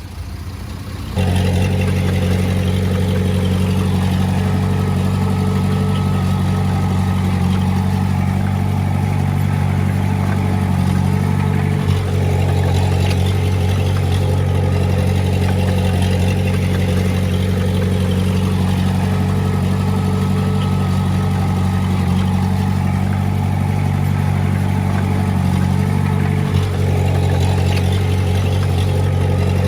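Heavy-equipment diesel engine running steadily at a constant speed. It starts abruptly about a second in and has two brief dips, one near the middle and one near the end.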